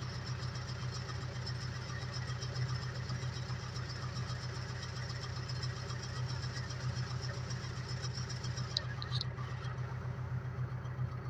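Ursus 385 tractor's diesel engine running steadily with an even low throb. A few brief high squeaks come about nine seconds in.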